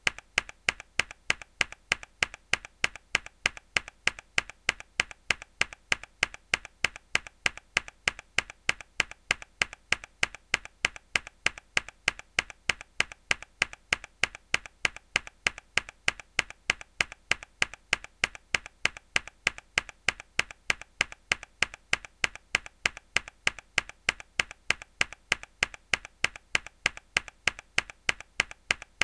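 A single hard key press on a mechanical keyboard, looped: sharp clacks repeating evenly several times a second, all the same.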